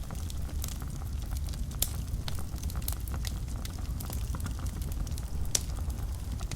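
Wood fire burning in a fireplace: a steady low rumble of flames with frequent sharp crackles and a few louder pops, the loudest about two-thirds of the way through.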